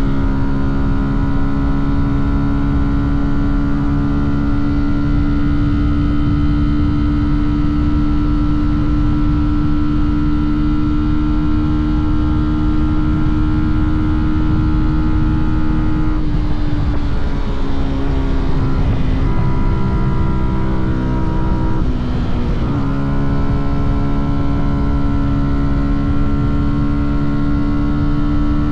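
Fantic Caballero 125 motorcycle's single-cylinder four-stroke engine and exhaust running at a steady cruising pitch. About halfway through the pitch drops and holds lower for several seconds, then it climbs back to the cruising pitch late on.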